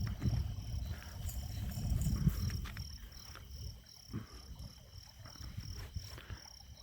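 Crickets chirping steadily in the night, about three high chirps a second. Under them is a low rumble, strongest in the first half, that fades.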